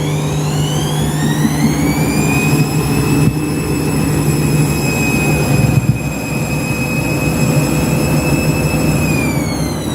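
Washing machine drum spinning, its motor whine rising over the first couple of seconds, holding steady, then falling near the end as the spin slows. The drum is full of suds from a double dose of powder, and a suds lock sets in.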